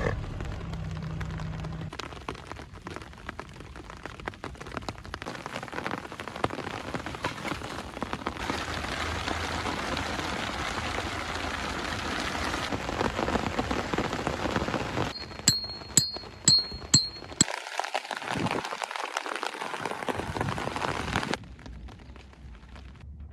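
Rain falling steadily, heard in several short stretches that change abruptly from one to the next. About fifteen seconds in come four sharp clicks about half a second apart.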